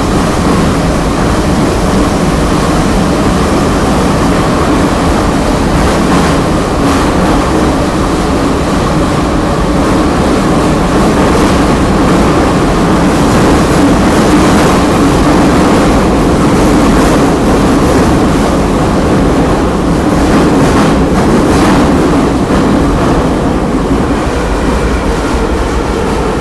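Kyiv Metro train running between stations, heard inside the carriage: a loud, steady rumble of wheels on rails. A few sharp clacks come through, a quarter of the way in and again about four-fifths of the way in.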